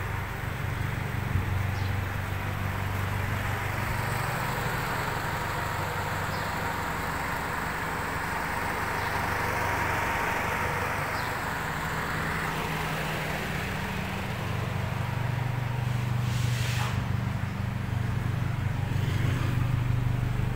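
Nissan B12's engine idling steadily, a low even hum that grows louder toward the end as the rear of the car is reached. A broad rushing hiss swells and fades around the middle, and there is one short knock near the end.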